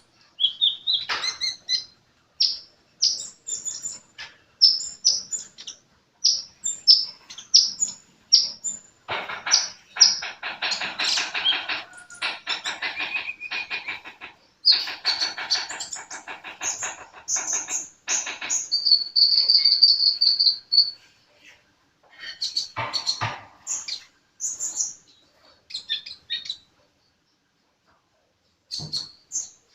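A sunbird, the bird Indonesian keepers call a kolibri, singing in full voice: many short high chirps, two long, fast, buzzy trills, and one held high whistle in the second half, then a brief pause near the end.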